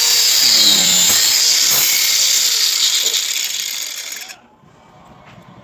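Power tool running, with loud, dense high-pitched noise that fades and then stops suddenly about four seconds in.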